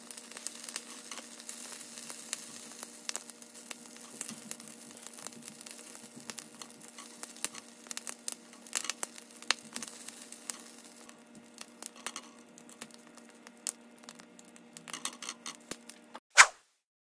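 Small pieces of food sizzling in a nonstick grill pan, with frequent crackles and clicks as they are turned with a utensil; the sizzle thins out after about eleven seconds. A steady low hum runs underneath, and one sharp click comes near the end.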